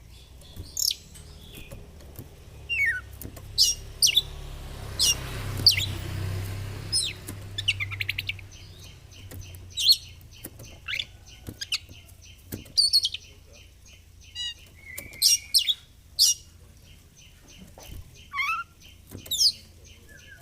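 Oriental magpie-robin (kacer) singing a loud, varied song of sharp whistles, quick chirps and fast trills.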